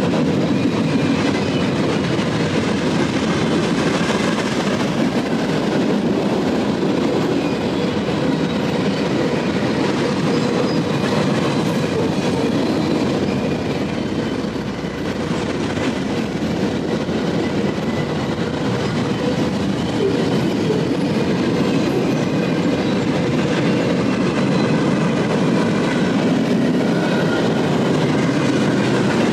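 Freight train's loaded flatcars rolling past, steel wheels running steadily on the rails with an even, unbroken rumble.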